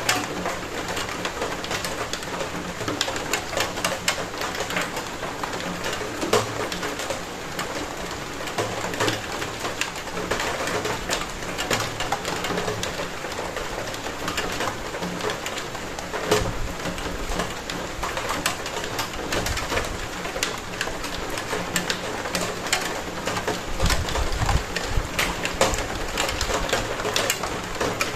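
Steady rainfall with many close drops ticking and pattering on surfaces.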